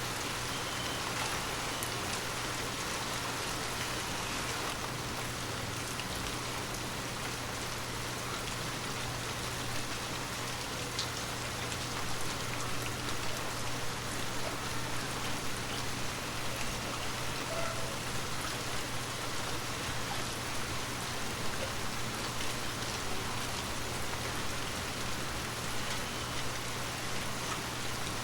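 Steady heavy rain falling, a dense even hiss with scattered individual drop ticks on surfaces.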